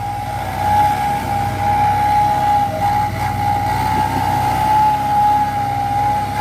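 A steady, high whistle-like tone that wavers slightly, held throughout, over the low rumble of a dump truck's diesel engine running.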